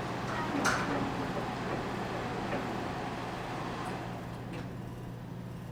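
Airport terminal background noise: a steady low hum under an even wash of indistinct room noise, with one sharp click about two thirds of a second in, gradually quieting toward the end.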